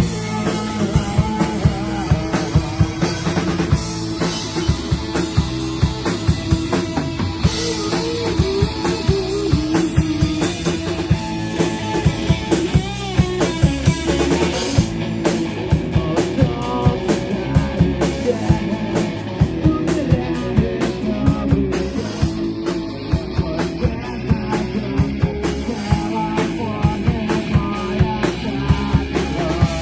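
Rock band playing live, with a steady pounding drum kit under electric guitar and bass.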